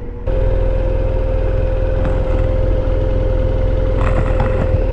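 Motorcycle engine running steadily, with heavy low rumble. It starts abruptly just after the beginning and cuts off sharply at the end.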